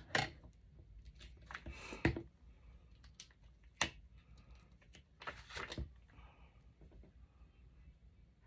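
Hands handling paper craft supplies: scattered taps, clicks and rustles of paper tags and small stick-on labels being placed, the sharpest taps about two and four seconds in.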